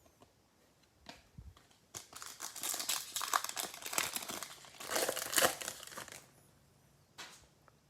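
Crinkling of a plastic trading-card pack wrapper being handled and torn open. It runs in an irregular crackle from about two seconds in to about six seconds, with a short rustle near the end.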